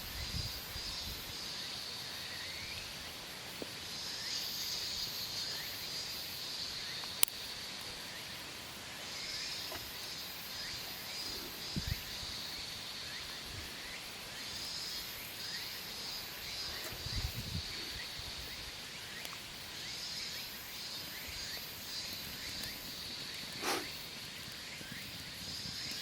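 Insects chirping in a steady, pulsing high-pitched chorus, with a few sharp clicks or pops, the loudest about seven seconds in.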